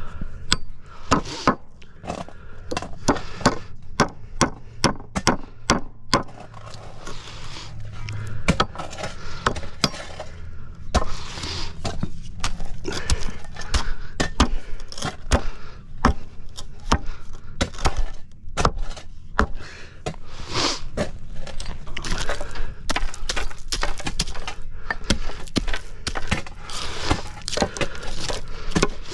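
Repeated hammer blows on wood, many irregular strikes with short pauses, as nails are driven into the wooden forms for a concrete sidewalk repour. A low steady hum runs underneath.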